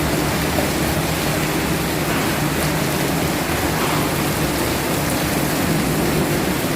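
Heavy rain pouring down in a windstorm: a steady, dense rush with no let-up.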